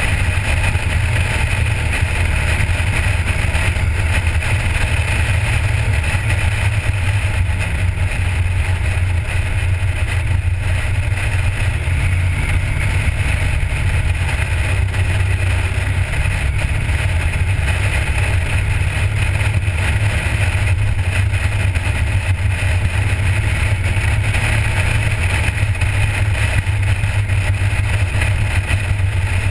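1977 Chevrolet Corvette's 350 cubic-inch small-block V8 running at a steady cruise: a low, even drone with a slight change in pitch about halfway through, mixed with road and wind noise from the car's outside.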